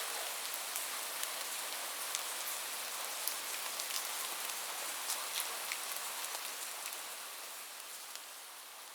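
Steady rain falling, with many single drops clicking close by over the even hiss. It eases off a little near the end.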